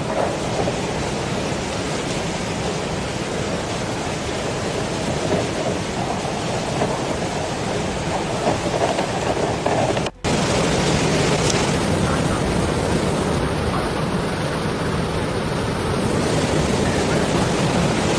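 Steady, loud noise of heavy rain during a rainstorm flood. It breaks off briefly about ten seconds in and carries on in another shot.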